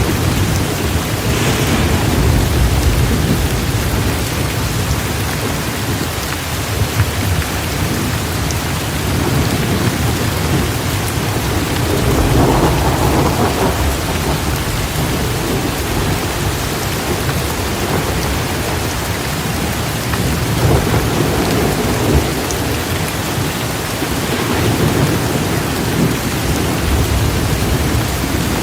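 Heavy rain pouring steadily, with low rolls of thunder swelling and fading several times underneath.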